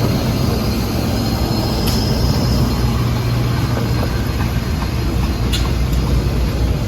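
Engine running with a steady low rumble, with a few sharp clicks over it.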